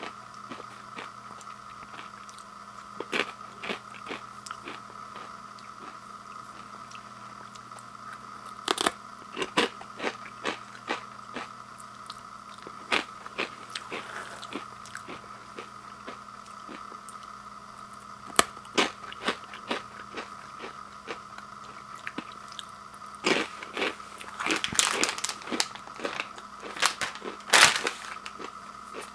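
Crunchy rolled tortilla chips (Takis Nitro) being bitten and chewed, the crunches coming irregularly in little bursts and busiest in the last few seconds. A steady faint hum runs underneath.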